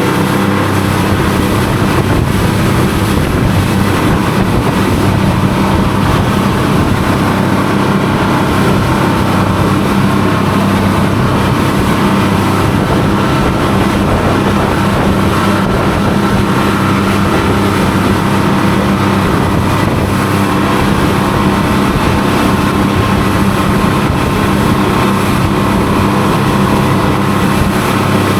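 Boat engine running steadily under way, with a constant rush of water and wind as the hull cuts through the waves.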